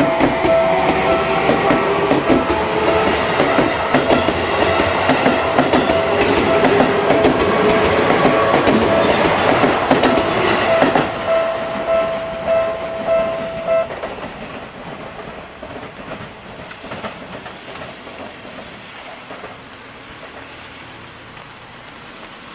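Seibu 20000 series electric train passing close by: wheels clattering over the rail joints, with a steady high tone over the running noise. From about eleven seconds in the sound fades as the train moves away, leaving a quiet even hiss.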